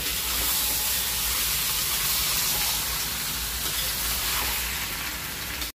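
Freshly added wet onion, tomato, ginger and garlic paste sizzling in hot oil in a kadhai with potato and jackfruit pieces, stirred with a metal spatula: the start of frying the masala paste. A steady hiss that eases slightly near the end.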